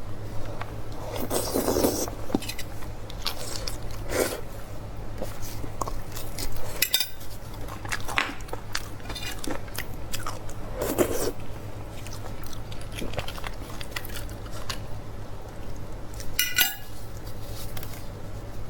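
Close-miked eating of beef bone marrow: wet chewing and sucking, with scattered sharp clicks of cutlery against a dish, over a steady low hum.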